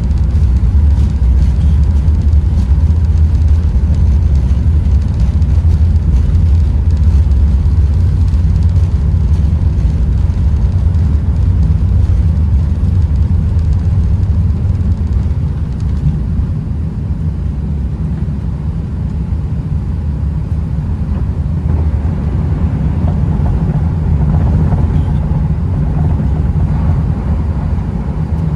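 Airbus A380 takeoff heard from inside the passenger cabin: a loud, steady, low rumble of the jet engines and airflow. It eases slightly about halfway through, then swells a little again.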